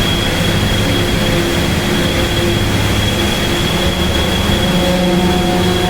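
Truck engine running under load with steady road and cab rumble while driving, a thin high whine sitting steadily above it.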